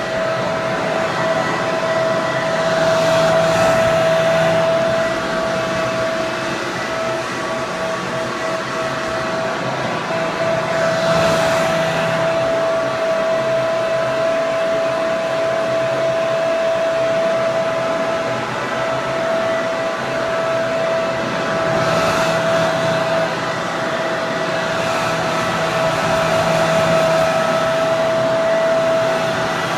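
Electric hair dryer running steadily: an airy rush with a constant whine from its fan motor, swelling slightly now and then.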